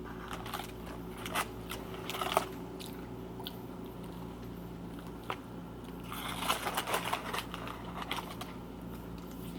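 A man chewing and biting into a triple thick bacon BLT sandwich, with close mouth clicks and smacks in two bouts: one in the first couple of seconds and one about six to eight seconds in. A faint steady low hum runs underneath.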